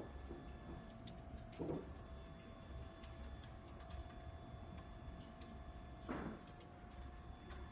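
Quiet workshop room tone: a steady low hum and a faint steady tone, with two soft knocks a few seconds apart and some faint ticks.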